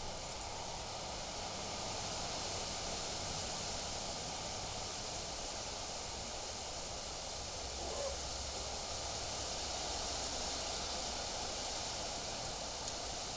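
Wind blowing steadily through foliage: an even rustling hiss with a low wind rumble on the microphone, and one brief click about eight seconds in.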